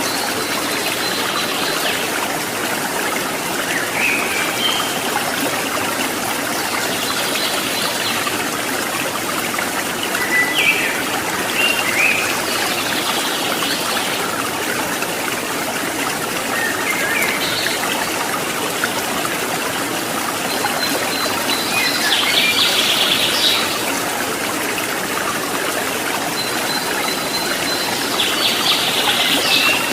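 Steady rush of running stream water, with birds chirping and trilling every few seconds over it.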